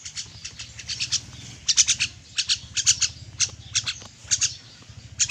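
A pet Nias myna (jalak Nias) giving short, sharp chirping calls in quick clusters of two to four, over a low steady hum.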